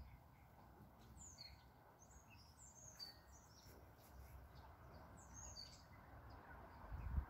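Faint chirps of small birds: a scatter of short, high calls through the first few seconds, over a quiet low background hum.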